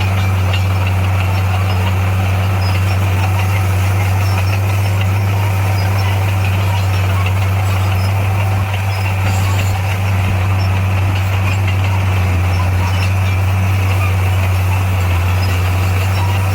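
Motor grader's diesel engine running steadily at a constant, low pitch.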